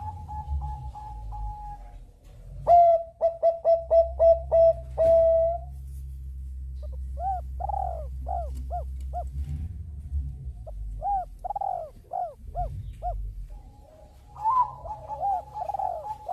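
Zebra doves (Bangkok-line perkutut) cooing: a run of quick pulsed coos ending in a longer note, then two phrases of about six short arched coos each. A long held note comes at the start and again near the end, over a low steady rumble.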